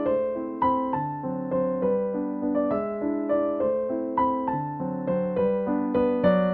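Background music: a gentle piano melody with notes struck at an even pace, about three a second.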